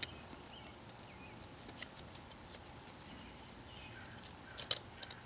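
Quiet handling noise while the exhaust cover's bolts are fitted: a few faint clicks, with a small cluster of sharper clicks and taps near the end.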